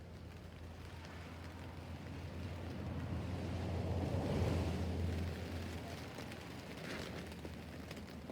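Rain on a tent roof, with a deep rushing noise that builds to its loudest about halfway through and then fades away.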